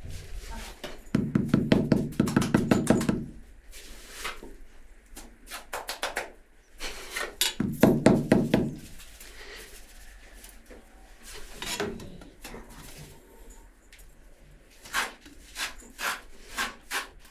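Rapid knocking in two loud bursts of a couple of seconds each, the second shorter, followed by scattered single knocks near the end.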